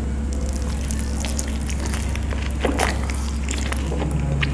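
Close-up eating sounds: wet chewing and lip smacks of curry-soaked naan eaten by hand, with scattered sharp clicks over a steady low hum.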